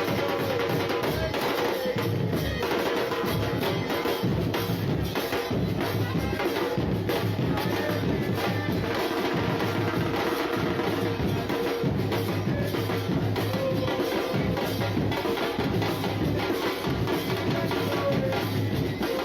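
Football supporters' drum band, bass drums and snares, beating a steady rhythm over a dense, continuous wash of crowd sound.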